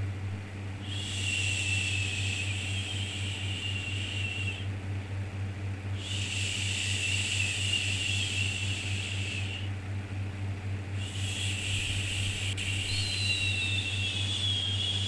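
Soothing 'shhh' shushing sounds for calming a baby: three long hushes of about four seconds each, a little over a second apart, with a second overlapping shush in the last one, over a steady low hum.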